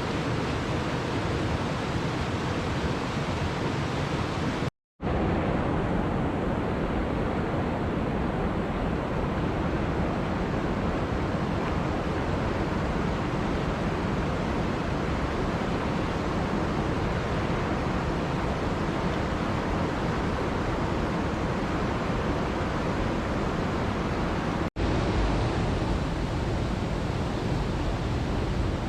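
Waterfall rushing: a steady, even noise of falling water, cut off for a moment about five seconds in and again briefly near the end.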